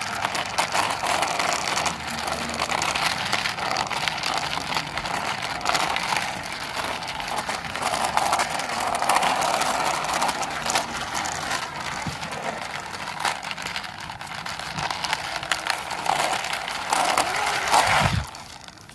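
Toy helicopter pushed by hand along the ground, its small plastic wheels rolling and grating with a steady crackle of fine clicks that swells and eases as it moves. The sound stops shortly before the end.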